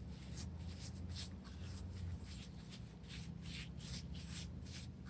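Hands pressing and rubbing wet cement patching material onto a cracked stone fountain panel: a run of faint, irregular rubbing and scraping strokes. A low steady hum runs underneath.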